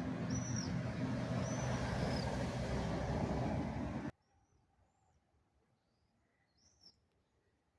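Steady rumble of road traffic with small birds chirping over it, a few short arched chirps. About four seconds in the traffic noise cuts off abruptly, leaving only a few faint bird chirps.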